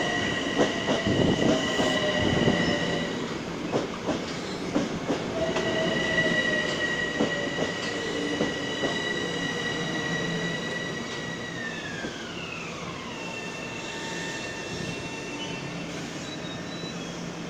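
Metro-North electric commuter train moving at the station with a high, steady metallic whine or squeal. The whine breaks off about three seconds in and comes back, then slides down in pitch about twelve seconds in and carries on lower and fainter. Clanking knocks come in the first few seconds.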